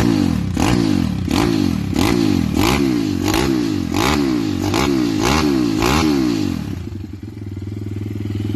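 CW190 pit bike's 190cc Zongshen four-stroke single being blipped, revving up and dropping back about ten times in quick succession, with a sharp crack at each peak of the revs. About seven seconds in, it settles back to idle.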